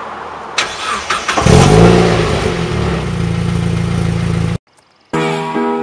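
Mazda Miata's four-cylinder engine starting through an aftermarket exhaust: a few sharp clicks, then it catches about a second and a half in with a quick rise and fall in revs and settles into a steady idle. The engine sound cuts off abruptly near the end, and piano music begins.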